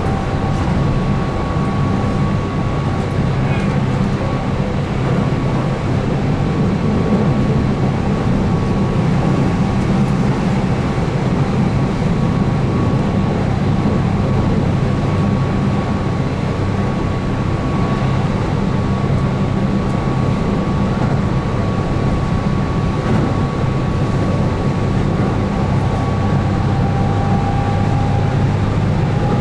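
Keihan 8000 series electric train running at speed. The steady rumble of wheels on rail carries a thin whine from its field-added excitation controlled DC traction motors, and the whine shifts slightly near the end.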